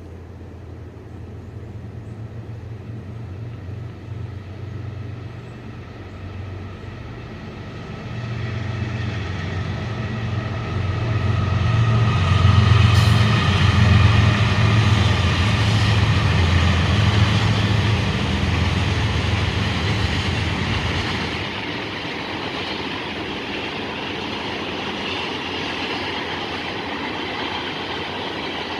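A train passing close by: the low rumble of diesel locomotives builds, is loudest about halfway through and drops away fairly suddenly about two-thirds of the way in. The rolling and rattling of the cars' wheels on the rails carries on steadily after that.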